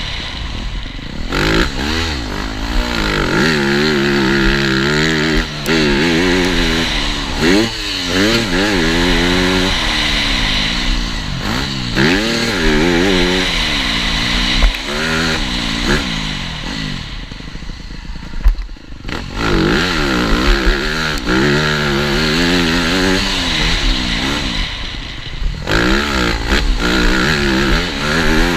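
TM Racing 250 Fi motocross bike's engine under hard riding, its pitch climbing and dropping again and again as the throttle is opened, gears are shifted and the rider rolls off. It eases off briefly about two-thirds of the way through, then revs up again.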